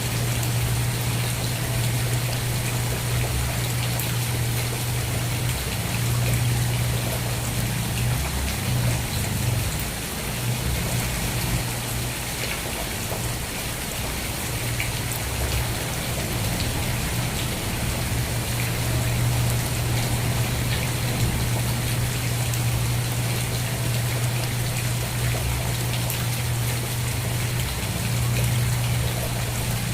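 Steady rain falling, an even hiss with scattered drop ticks, over a constant low hum that breaks off briefly a few times.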